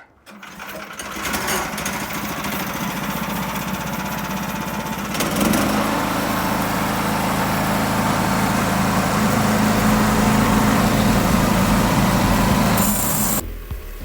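An old sawmill's small engine and saw running, the noise building within the first second or two. It gets louder from about five seconds in, consistent with the blade working into the oak log, and drops off sharply just before the end.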